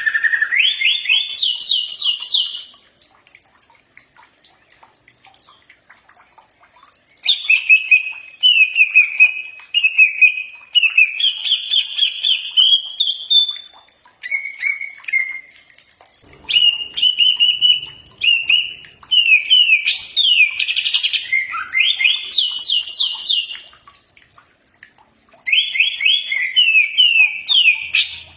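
Cucak ijo (green leafbird) singing in loud phrases of rapid, varied whistled notes that sweep up and down, five phrases with pauses of a few seconds between them.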